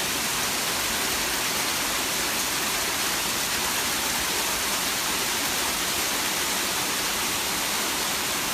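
Hail falling heavily, a dense and steady hiss of countless impacts with no single strike standing out.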